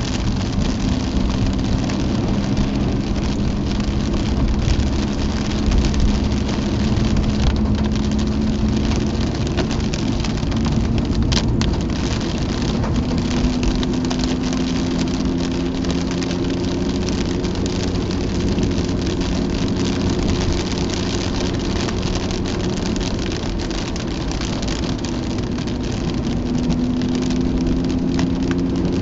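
Mazda RX-8's twin-rotor Wankel engine heard from inside the cabin, its note slowly rising and falling with the throttle, over a steady hiss of heavy rain and wet tyres on the road. A single brief click about eleven seconds in.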